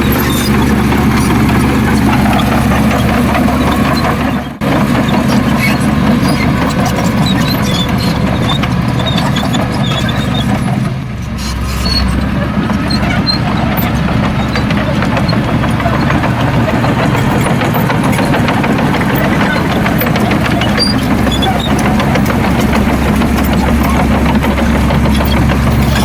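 Heavy diesel earthmoving machinery running steadily, with a brief sharp drop in level about four and a half seconds in and a short dip near the middle.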